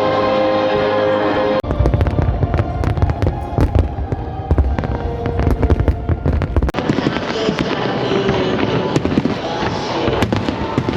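Music for the first second and a half, then an abrupt change to a large aerial fireworks display: rapid overlapping bangs and crackles over a deep rumble. About seven seconds in, the deep rumble drops away while the sharper bangs and crackling carry on.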